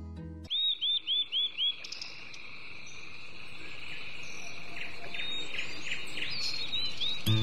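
A bird calling five quick notes in a row, then more scattered calls, over a steady high insect drone that slowly grows louder.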